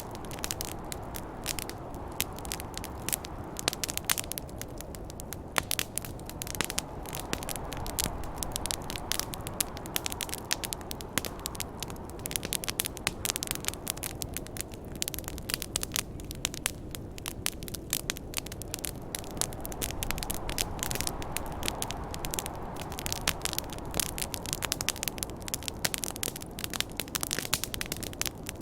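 Campfire crackling with frequent sharp, irregular pops, over a low rushing snowstorm wind that swells and eases, dying down around the middle and building again.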